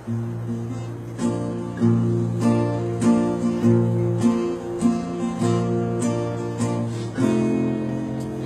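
Acoustic guitar playing a slow strummed-chord introduction, a new chord struck a little more than once a second.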